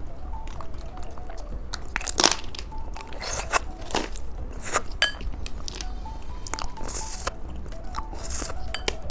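Close-miked biting and chewing of a grape-shaped gummy candy with a crisp shell, giving sharp, irregular crunches. Soft background music with a light melody plays underneath.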